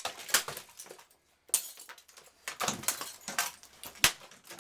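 Kambrook KES110 coffee maker being hit with a golf club: four sharp strikes, roughly one a second, with its plastic and metal parts clattering between them.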